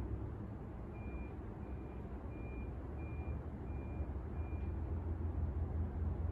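TAT-Omega rattan-blade ceiling fan running, a steady low rumble of motor and moving air. About a second in, a high beep sounds six times, evenly spaced about two-thirds of a second apart.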